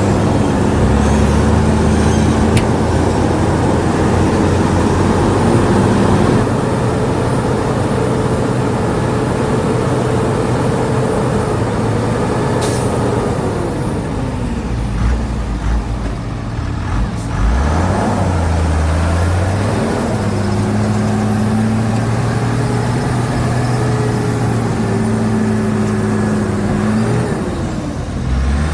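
Diesel engine of a Shantui DH17 bulldozer running steadily under load. About halfway through its pitch drops for a few seconds, then comes back up.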